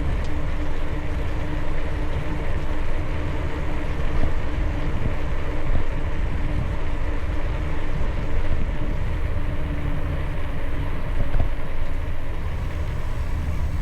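Mokwheel Granite e-trike on the move: wind on the camera microphone and a steady low rumble from riding, with a steady hum that fades out about nine seconds in.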